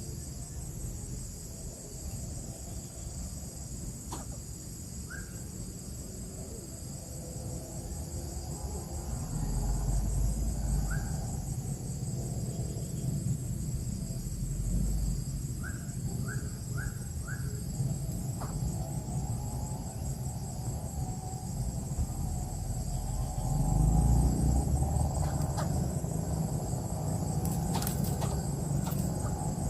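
A steady, high-pitched insect chorus drones throughout, over a low rumble that swells twice. A few short chirps stand out, including four in quick succession about halfway through, and there are a few sharp clicks near the end.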